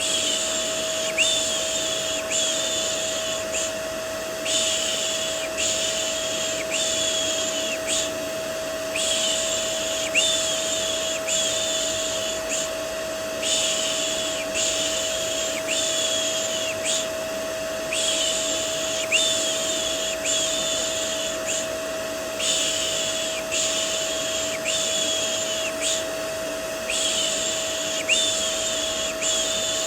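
Repeated 'shh' shushing sounds for soothing a baby, each about a second long and coming roughly once a second with occasional short pauses. Underneath is the steady hum and whine of a vacuum cleaner running as white noise.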